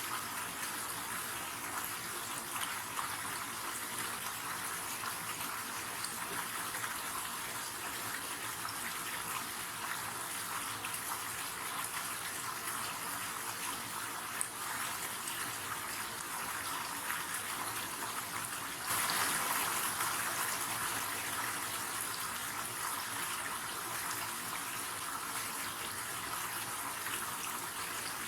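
River water flowing over rocks, a steady rushing hiss; about two-thirds of the way through it suddenly gets louder and brighter, then slowly settles back.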